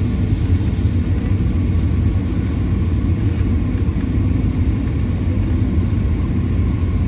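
Steady low rumble of an Airbus A320 in flight, its engine and airflow noise heard inside the cabin.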